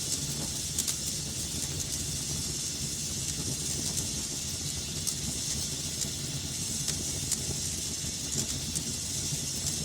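Wood fire burning in a fireplace with a steady hiss and low rumble, broken by a few scattered sharp crackles and pops.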